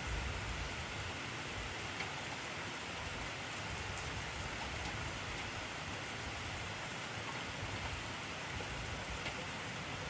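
Steady heavy rainfall: an even hiss with scattered individual drop ticks.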